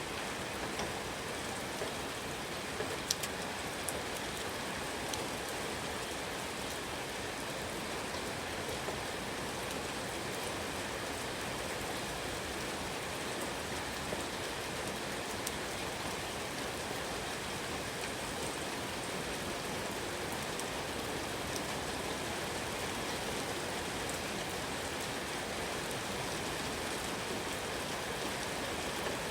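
Steady rain falling, an even patter with a few sharper single drops near the start.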